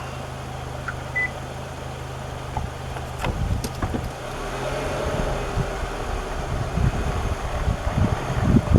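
A safari vehicle's engine running at idle, a steady low hum whose note changes about halfway through. A few sharp clicks come around three seconds in, and there are louder irregular low rumbles and knocks near the end.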